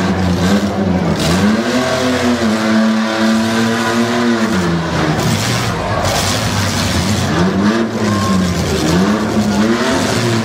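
Demolition derby car engines revving hard, the pitch climbing, holding and dropping again several times as the wrecked pickups push against each other in the dirt.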